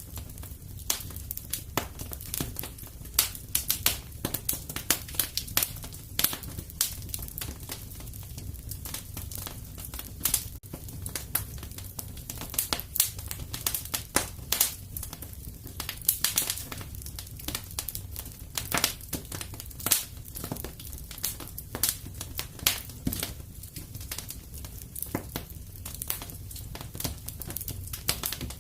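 Fire in a fireplace crackling, with many irregular sharp pops over a steady low rumble.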